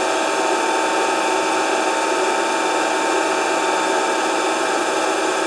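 Grinding machine running steadily during a grinding pass: the spinning wheel and its motor give several constant whining tones over an even hiss, with no change in level.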